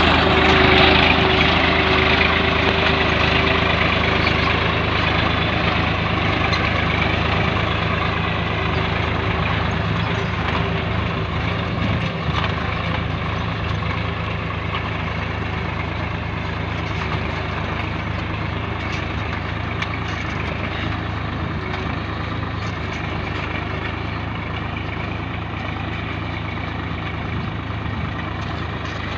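Swaraj 960 FE tractor's diesel engine running steadily at an even speed, slowly growing a little quieter.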